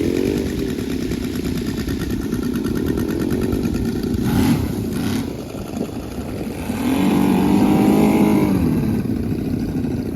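Small combustion engines of RC model airplanes running and revving, their pitch rising and falling. One engine grows louder for a second or two about seven seconds in.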